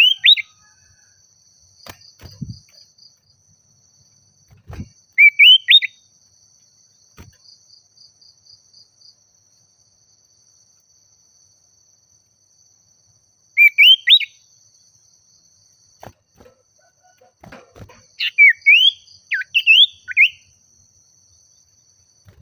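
Common iora (sirtu/cipoh) calling: short, loud, rising whistled phrases repeated every several seconds, then a longer run of several whistles near the end. Under them runs a faint, steady, high insect trill.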